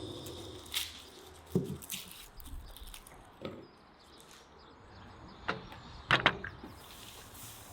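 A few scattered short knocks and taps, with a close pair near the end the loudest, over a faint steady background.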